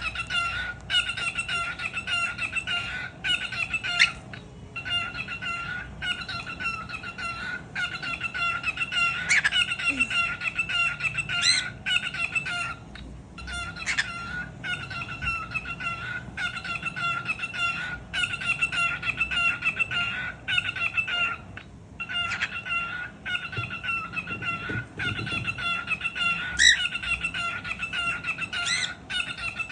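Cockatiel chattering: a fast, nearly continuous run of short repeated chirps with a few brief pauses, and now and then a sharper, louder call that cuts through.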